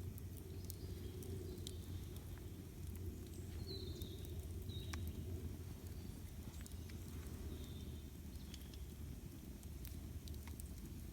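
Campfire burning: scattered crackles and sharp pops of the burning wood over a steady low rumble.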